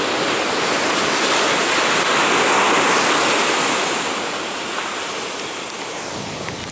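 Sea surf breaking on a beach, a wide rushing hiss that swells to a peak about halfway through and then slowly fades.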